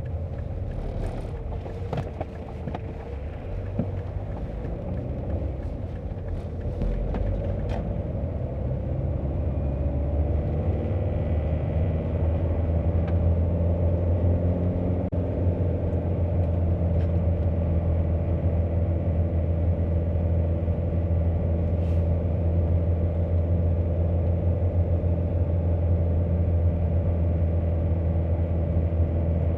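Car driving along a road, engine and road noise as a steady low hum; the engine pitch rises as the car picks up speed over roughly the first ten seconds, then holds steady at cruising speed. A few sharp clicks in the first several seconds.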